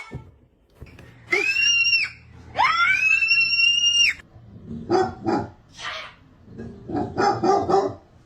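A dog howling in two long, high, held notes, then giving a run of short yelping barks.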